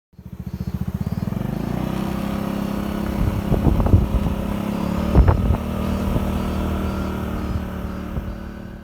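Yamaha Majesty 125 scooter's single-cylinder four-stroke engine running steadily, with a couple of short louder blips near the middle, fading out near the end.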